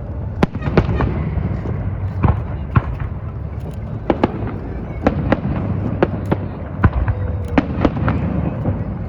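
Fireworks display: a rapid, irregular string of sharp cracks and bangs, roughly two a second, over a continuous low rumble.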